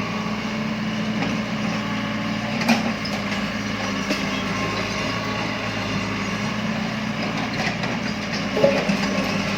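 Heavy machinery engine running steadily, with a sharp knock about three seconds in and a louder one near the end.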